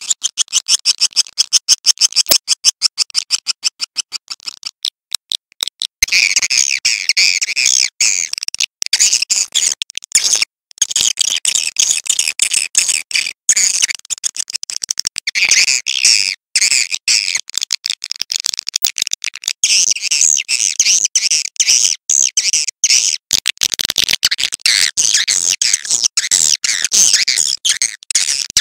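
Swiftlet calls: a fast, even train of sharp clicks for the first few seconds, then from about six seconds in a dense, high twittering of chirps in quick bursts with short gaps.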